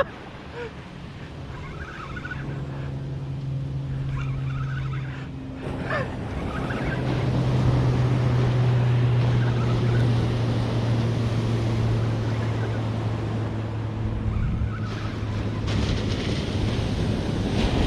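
A steady engine hum that starts about two seconds in, drifts slowly lower in pitch and fades out near the end, over the wash of breaking surf.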